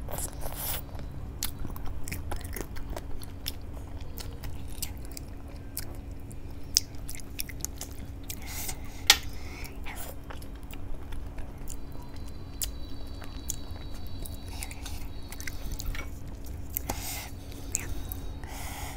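A person chewing mouthfuls of rice and hilsa fish curry eaten by hand: wet mouth clicks and smacks, with a couple of sharper clicks around the middle, over a faint steady hum.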